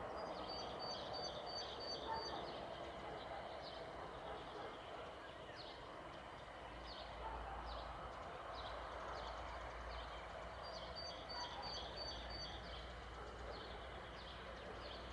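Small birds chirping with short, high calls, one of them twice giving a quick run of about eight high notes, over a steady low background murmur.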